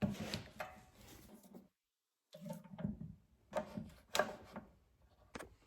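Scattered light knocks, clinks and rubbing from hands handling small-engine parts and tools, with a dead-silent gap about two seconds in.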